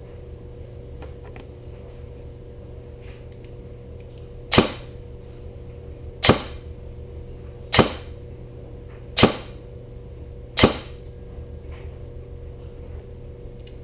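Five single shots from a KWA SR10 airsoft electric rifle, fired about one and a half seconds apart over a chronograph, over a steady low hum. The shots are even, a consistent velocity of about 305 FPS.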